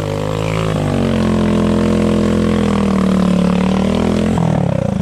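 Motorcycle engine revving hard and held at high revs, lifting slightly about a second in; near the end the throttle is let off and the revs drop to an uneven, chugging low speed.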